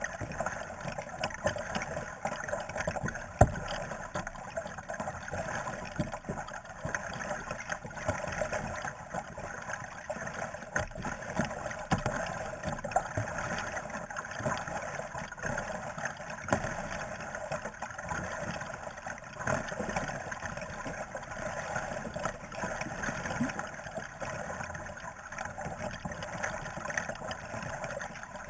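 Kayak paddling: a steady wash of paddle-stirred water with small splashes and drips. There is one sharp knock about three and a half seconds in.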